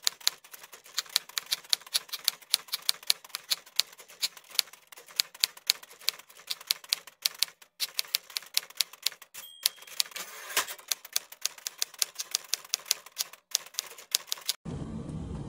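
Manual typewriter typing in quick, sharp keystrokes, about four or five a second, with brief pauses. A little past halfway the margin bell dings and the carriage is returned, then typing resumes until it cuts off abruptly near the end.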